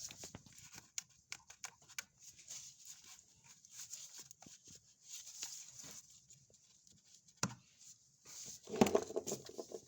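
Scattered clicks and scraping of parts being handled and pushed back into place in a car's engine bay, with a louder scraping rustle near the end.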